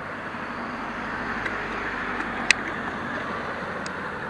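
Road traffic noise heard from a bicycle on a town road: a steady rush of passing vehicles that swells a little midway, with a sharp click about two and a half seconds in.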